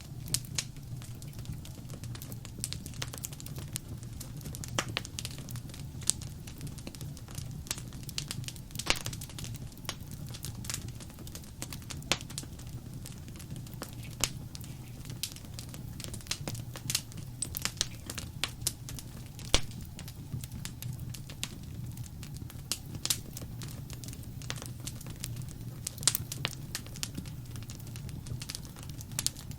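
Wood fire crackling in a fireplace: irregular sharp pops and snaps, a few at a time, over a steady low rumble of the burning fire.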